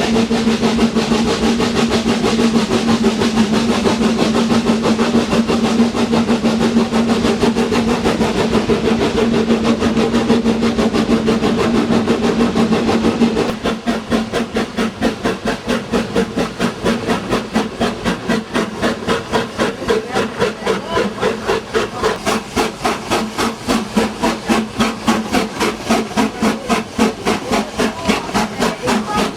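Schynige Platte Bahn's SLM Class H2/3 0-4-2T rack steam locomotive working: a steady low hum for about the first half, then even rhythmic exhaust chuffs, a few a second, for the rest.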